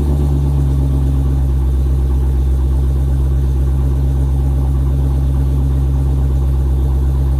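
Dodge Challenger Hellcat's supercharged 6.2-litre HEMI V8 idling steadily after a cold start, its exhaust running through Stainless Works cat-delete pipes with no catalytic converters. It is a steady low drone with no revs.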